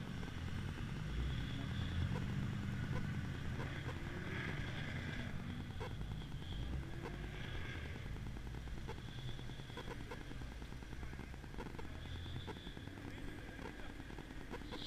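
Car engines running at low speed, a steady low rumble.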